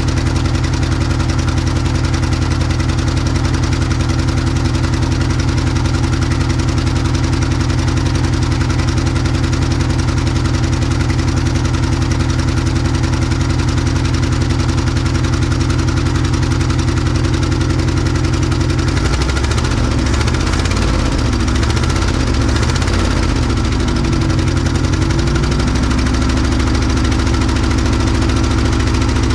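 1967 Ford F100's FE big-block V8 idling steadily after more than 20 years of sitting, being warmed up to heat-cycle it in the hope of freeing stuck valves. About two-thirds of the way through, the idle speed wavers for several seconds, then settles into a steady idle again.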